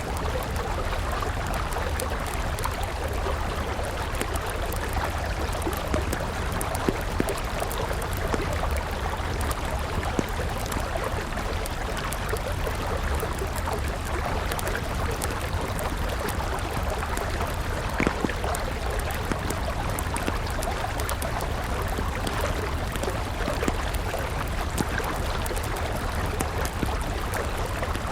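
Steady flow of a river with a wood campfire crackling over it: scattered small pops and ticks, a few sharper ones standing out now and then.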